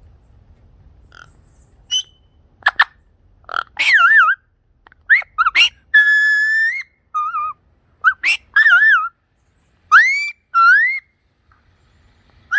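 A series of loud whistled notes, some rising, some wavering up and down and one held steady for nearly a second, with a few sharp clicks among the first ones.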